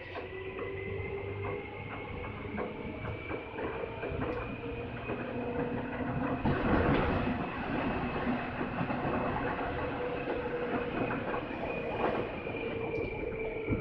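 Seibu 2000 series electric train running, heard from inside the car: a steady motor and gear whine that rises slightly in pitch and then eases back a little, over the clatter of wheels on rail joints. A louder rush of noise swells about six to eight seconds in.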